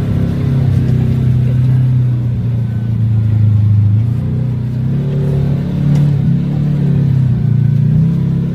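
Off-road vehicle's engine running under load, its pitch rising and falling as the throttle changes, with a brief dip about six seconds in.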